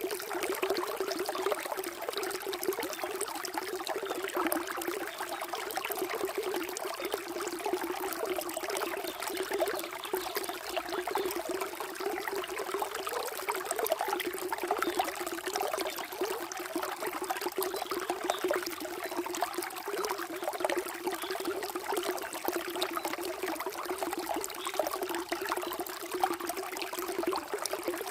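Water flowing and trickling steadily, with no change in level.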